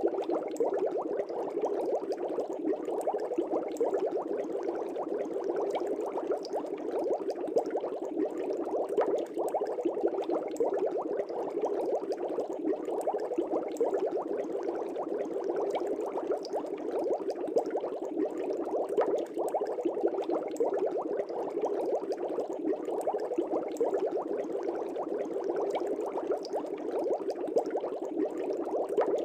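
Fish-tank air bubbles bubbling steadily in the water, a continuous dense stream of small pops and gurgles.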